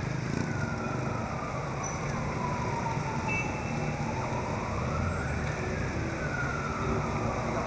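A siren wailing slowly: its pitch falls over the first four seconds, climbs again about four seconds in, and falls once more near the end, over a steady low rumble.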